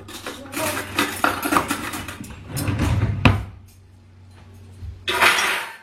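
Household clatter as a meal is set out: irregular knocks and clinks of dishes and utensils being handled, with one sharp knock about three seconds in and a short rushing noise near the end.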